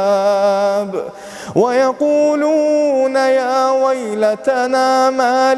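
A man reciting the Quran in slow melodic tajweed, drawing out long held notes. His voice dips briefly about a second in, then glides upward into the next long note.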